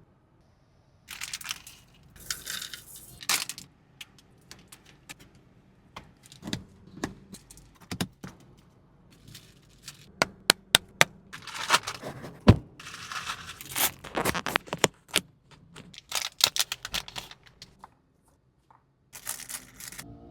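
Packaging being handled and torn open, with crinkling rustles and scattered sharp clicks and knocks.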